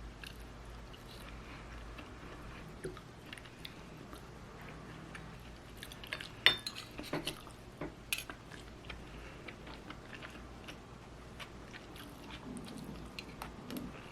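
Scattered clinks and taps of cutlery against dishes, the sharpest a little past halfway, over a faint steady low hum.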